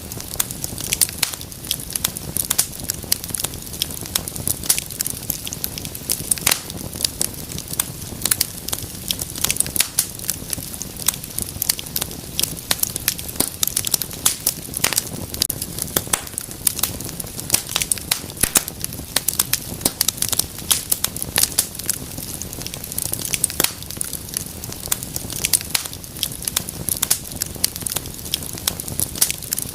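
Wood fire crackling and popping continuously, with many sharp irregular snaps over a low steady rush of flame.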